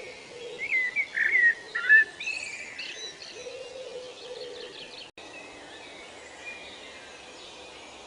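Birds singing: a few loud whistled calls that swoop up and down in pitch in the first two seconds, then fainter chirps and trills over a steady background hiss. The sound cuts out for an instant about five seconds in.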